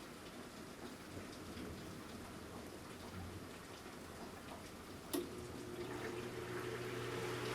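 Steady rain falling, with scattered small drop ticks. About five seconds in there is a sharp click, and then a steady mechanical hum starts and grows louder.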